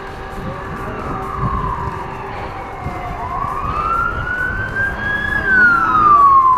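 Emergency vehicle siren in a slow wail: the pitch falls, rises over about two seconds, then falls again, getting louder near the end as the vehicle approaches.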